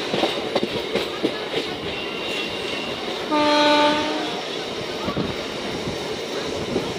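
Local passenger train running at speed, heard from its open coach door: steady running noise with the wheels clacking over rail joints. About three seconds in, the train's horn sounds once, a short blast lasting under a second.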